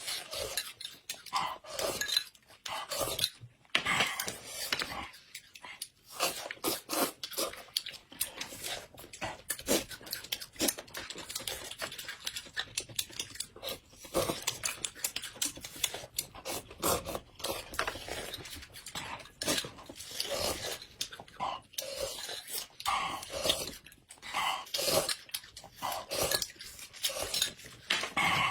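Eating sounds: chewing and crunching mixed with many short clinks and scrapes of cutlery against dishes.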